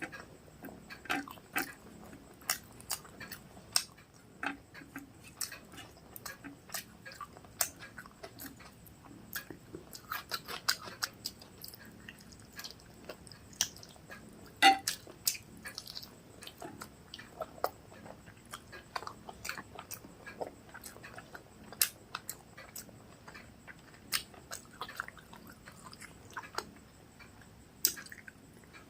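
Close-up chewing and wet mouth sounds from eating rice with curry: a continuous run of small smacks and clicks, one sharper smack about halfway through.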